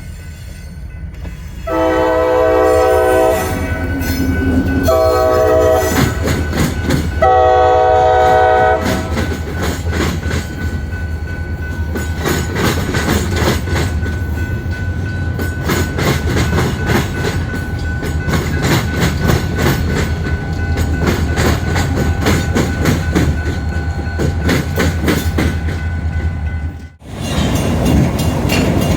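Diesel freight locomotive's multi-tone air horn sounding three blasts (long, short, long), followed by the train passing with a steady low engine rumble and wheels clicking over the rail joints.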